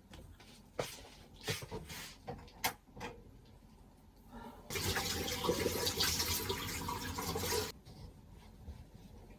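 Water running from a tap into a sink for about three seconds, starting and stopping abruptly, after a few small clicks and knocks.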